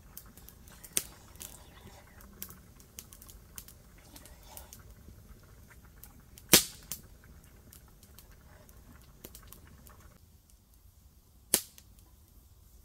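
Wood fire crackling: scattered small ticks and snaps with three sharp pops, about a second in, midway and near the end, the middle one loudest.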